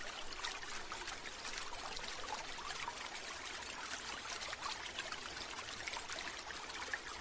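Running water trickling and splashing steadily, a soft, even water sound used as a relaxation background.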